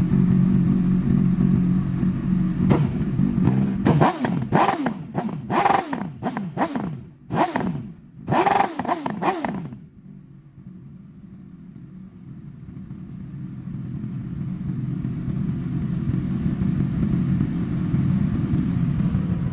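Honda CB1000R inline-four motorcycle engine running steadily, then revved in about six sharp throttle blips, each rising in pitch and falling away. About ten seconds in the sound drops low, then a steady engine drone slowly builds up again.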